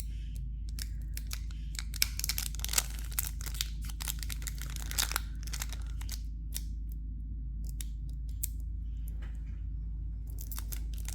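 Foil wrapper of a stubborn Pokémon booster pack crinkling and tearing as it is worked open. The crinkling comes in dense bursts through the first half, eases off, and picks up again near the end, over a steady low electrical hum.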